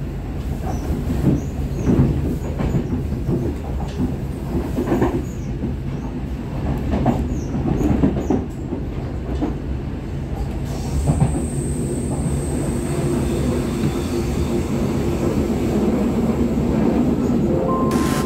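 Inside a moving passenger train gathering speed: a steady running rumble with wheels knocking over rail joints and points. About halfway, a high steady whine joins in.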